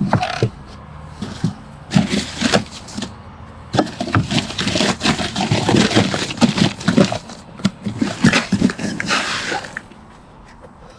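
Food scraps being scraped and tipped out of a box for chickens: irregular scraping and rustling with short taps, mostly from about two seconds in until near the end.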